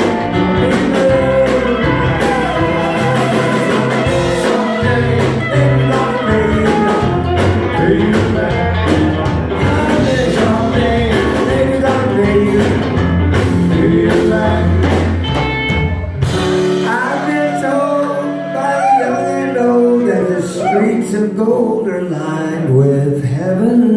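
Live rock band playing with male singing. About sixteen seconds in, the bass and drums drop away, and the voices carry on with little backing.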